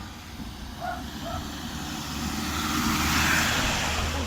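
A car passing close by on the road, its tyre and engine noise swelling to a peak about three seconds in and then easing off.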